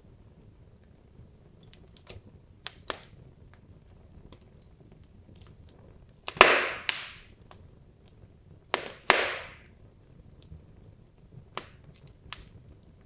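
Wood logs burning in a fireplace: scattered crackles and sharp snaps, with two louder pops about six and nine seconds in, each trailing off in a brief hiss.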